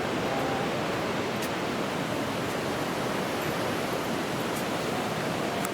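Steady rushing of water from a waterfall or cascade.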